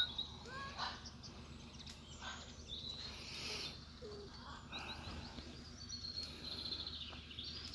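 Faint outdoor ambience with short, high bird chirps and calls scattered through it.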